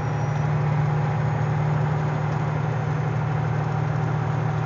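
A vehicle engine idling: a steady, even low drone.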